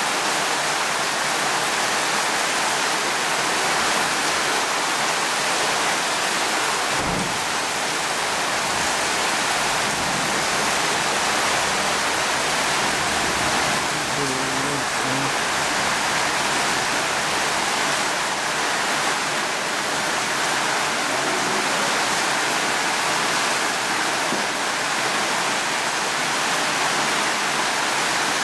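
Steady, heavy rainfall, an even hiss with no let-up, with one brief low thud about seven seconds in.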